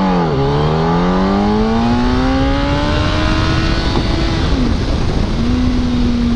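Motorcycle engine accelerating hard through the gears: its pitch climbs, drops at a shift just after the start, climbs again, drops at a second shift about halfway through, then holds steady. Heavy wind noise underneath.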